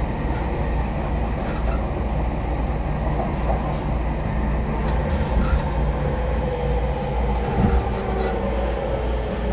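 Running noise inside a JR East E231-series commuter train: a steady rumble of wheels on rail. Over the second half a faint tone comes in and slowly falls in pitch.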